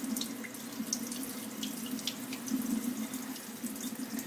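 Water running steadily from a tap, with small splashes and drips as a conure is wetted under the stream.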